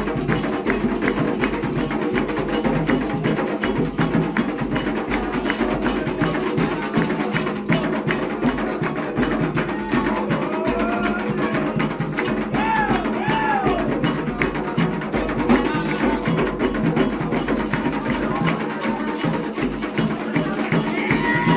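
Candomblé ritual drumming: hand drums and a sharp, clacking struck percussion line play a dense, steady rhythm without a break.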